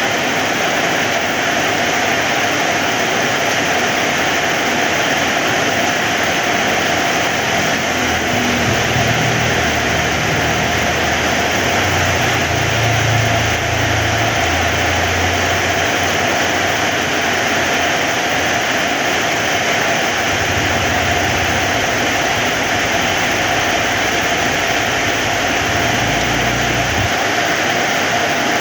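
Heavy rain falling steadily, a dense even hiss. A low rumble comes and goes beneath it, strongest from about a third of the way in to the middle, and again briefly near the end.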